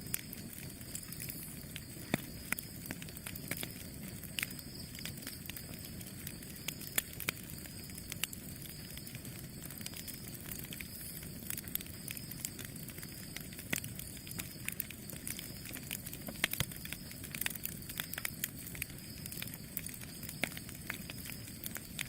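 Campfire crackling: a steady low rush of burning with frequent, irregular sharp pops and snaps from the wood.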